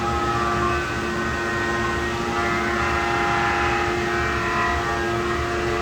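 Rottler CNC head-porting machine cutting a new port into a cylinder head: the spindle and cutter run with a steady whine made of several held tones over a rough low rumble.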